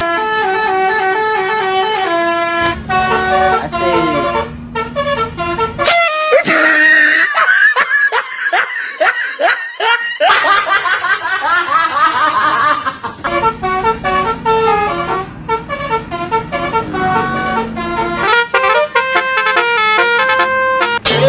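Basuri telolet bus horn, a multi-tone musical horn, playing a quick tune of short stepped notes. Partway through it changes to a stretch of warbling, gliding tones before the stepped tune returns.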